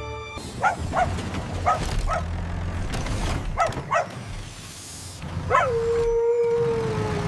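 Cartoon puppy barking in three quick pairs, then one more bark that runs into a long, slowly falling howl-like tone near the end, over a steady low rumble.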